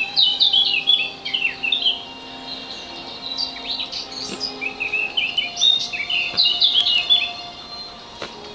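A songbird singing: quick runs of short, high chirping notes in two bouts, the second starting about three and a half seconds in.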